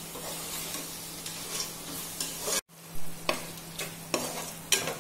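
Onions and ginger garlic paste sizzling in ghee in a pan while a spoon stirs and scrapes against the pan. There is a brief dropout a little past halfway, followed by several sharp knocks of the spoon on the pan.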